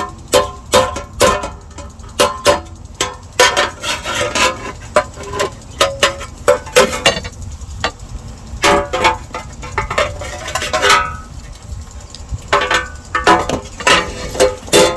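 Hammer blows on the sheet-steel battery tray: a long run of sharp, irregular metallic strikes, several a second, each ringing briefly, with a couple of short pauses.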